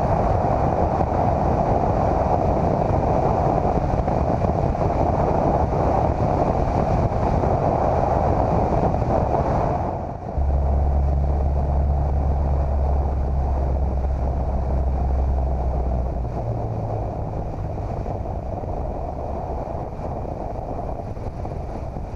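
Cessna 150's four-cylinder Continental O-200 engine and propeller running steadily, mixed with rushing airflow over the airframe. About ten seconds in the sound changes: a deep low rumble takes over for several seconds, then the overall level settles somewhat lower.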